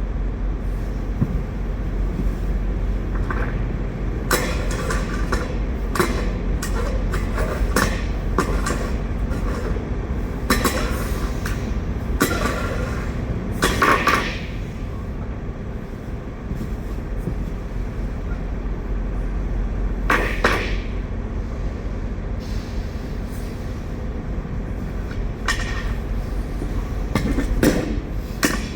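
Steady low engine rumble of idling trucks, with repeated scraping and knocking as stuck potatoes are pried loose and shifted on a trailer floor with a metal tool.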